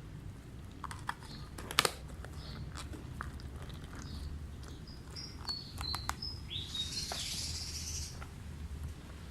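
Small birds chirping in the background, about once a second, with a few sharp clicks and a brief hiss about seven seconds in.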